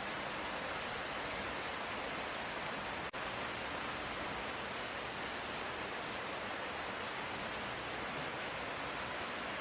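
Steady light rain falling, an even hiss with no single drops standing out, broken by a momentary gap about three seconds in.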